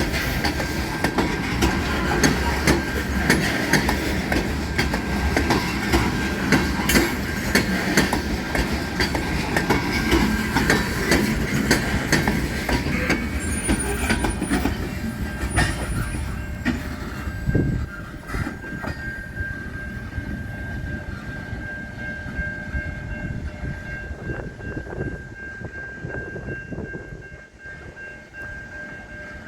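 Freight train cars rolling past, wheels clattering and clicking over the rail joints, with a steady high-pitched tone running through it. The clatter is loudest for the first half, then fades away after about seventeen seconds.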